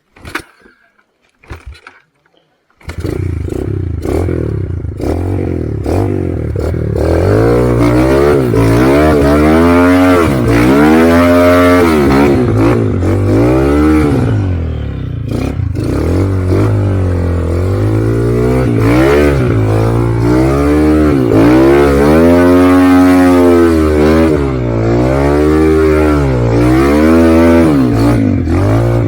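Motorcycle engine starting abruptly about three seconds in after a few faint clicks, then running loudly with its pitch rising and falling again and again as it is revved.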